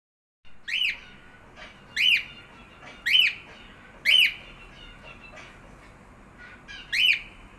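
Cockatiel calling: five loud, short whistled calls, each rising and falling in pitch. The first four come about a second apart and the last after a pause of nearly three seconds, with soft chirps in between.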